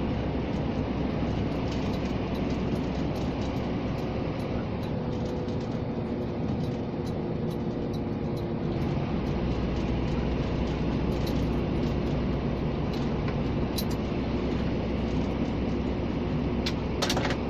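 Scania G460 truck's diesel engine running steadily with road noise, heard from inside the cab while driving. A brief clatter sounds near the end.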